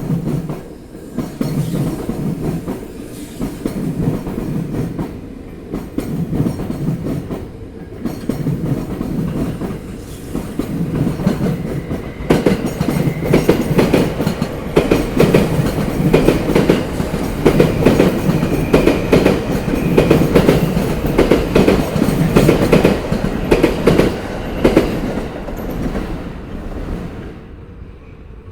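A Sobu Line train passing over rail joints, the wheels beating out a steady clickety-clack. It grows louder about halfway through and fades away near the end.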